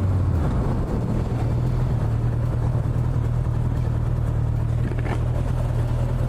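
Motorcycle engine running at steady revs under road and wind noise while riding, with no change in pitch.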